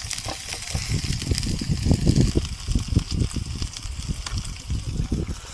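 A person chewing a wrapped bite of food close to the microphone: quick, irregular, moist mouth sounds, busiest about two seconds in.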